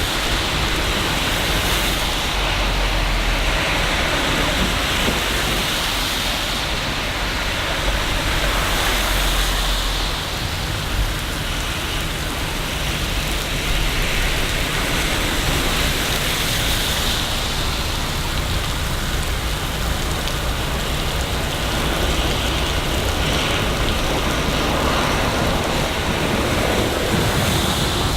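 Steady rain falling in a city, a dense even hiss with a low rumble underneath that rises and falls slowly every few seconds.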